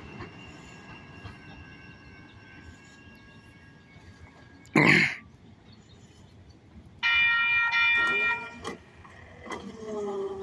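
SacRT light rail train moving off, its steady whine fading out over the first four seconds. A single loud short burst comes about five seconds in, and a loud many-pitched tone sounds for about a second about seven seconds in.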